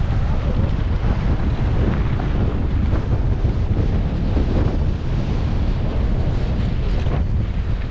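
Wind buffeting the camera microphone of a mountain biker riding fast downhill, a steady loud rumble, with faint clicks and crunches from the bike on the trail.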